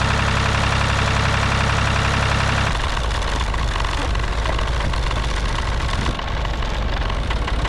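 An engine running steadily. About a third of the way in, the sound changes abruptly to a rougher, lower running that carries on to the end.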